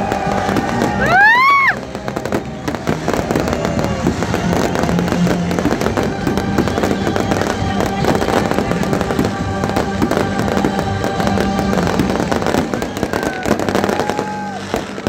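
Fireworks display with dense crackling and popping bursts throughout, and whistling fireworks sweeping up and down in pitch about a second in.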